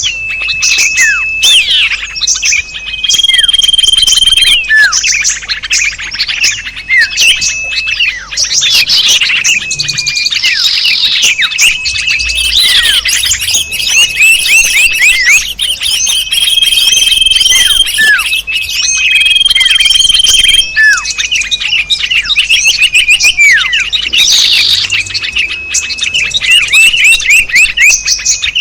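A dense chorus of many small songbirds chirping and calling over one another, with a level whistle repeated every few seconds and many quick falling chirps: a mixed bird-lure (pikat) call track made to draw in small birds.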